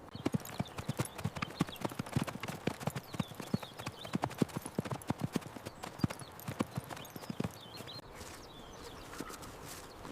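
Horse's hooves clip-clopping in an uneven run of strikes, several a second, that die away about three quarters of the way through.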